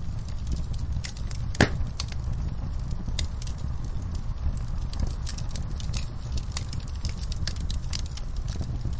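Wood fire in a fireplace crackling steadily, with scattered sharp pops over a low rumble of burning; one louder pop about a second and a half in.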